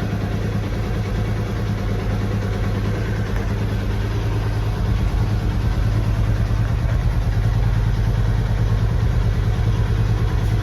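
Hero Honda CBZ motorcycle's single-cylinder engine idling through its exhaust, a steady rapid pulsing that gets a little louder about halfway through.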